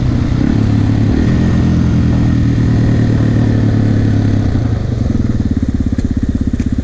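2005 Yamaha TT-R250 dirt bike's single-cylinder four-stroke engine running steadily, then easing off about five seconds in to an even, thumping low-rev beat.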